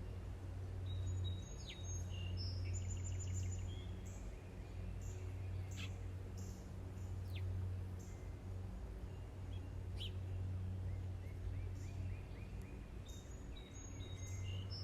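Wild birds chirping and trilling repeatedly over a steady low hum, with a few sharp clicks.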